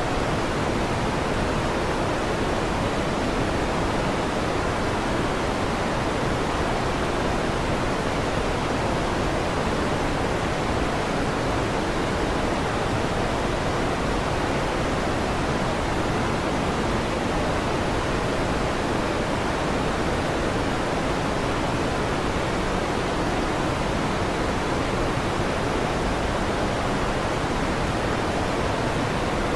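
Electric fan running with a steady, even hiss that does not change.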